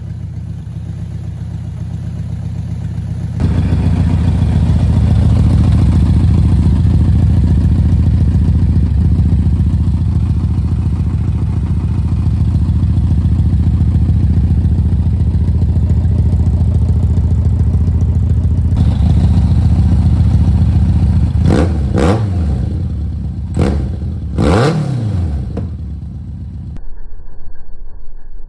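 1991 BMW K1 motorcycle's 987 cc inline-four running through a full aftermarket exhaust, held steady for most of the time, then blipped up and back down a few times in quick succession near the end.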